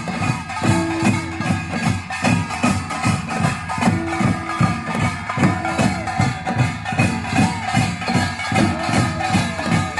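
Samul nori percussion ensemble playing a fast, steady rhythm. The small hand gong (kkwaenggwari) clatters over repeated strokes of the janggu hourglass drum and buk barrel drum.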